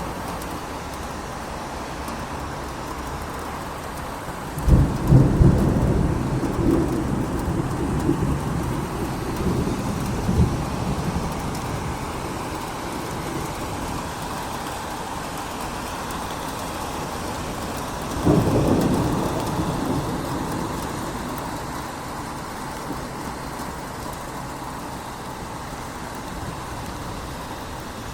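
Steady rain falling, with two rolls of thunder: one cracks in about five seconds in and rumbles on for several seconds, the second comes about eighteen seconds in and dies away.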